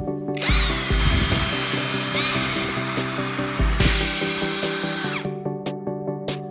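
A power drill runs for about five seconds with a high whine that steps up in pitch twice, then stops near the end. Background music plays throughout.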